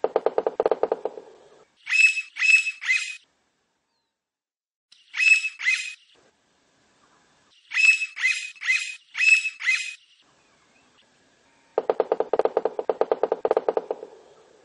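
Blond-crested woodpecker calling: short runs of two to five loud, sharp, high notes, repeated in groups. A rapid, lower-pitched rattle comes at the start and again near the end.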